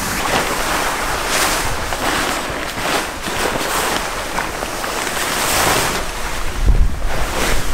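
Fabric car cover being dragged and pulled off a truck, a continuous rough rustling and swishing, with a low rumble against the microphone near the end.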